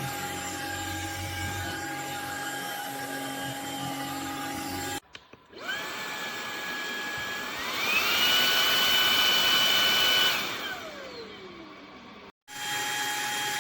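Cordless stick vacuum's motor switched on with a rising whine, stepping up to a higher, louder speed and running briefly, then switched off and whining down. A steady motor hum runs before and after it.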